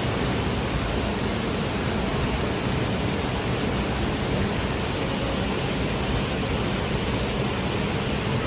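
Lubuk Batang waterfall: falling water heard as a steady, even rushing noise without breaks.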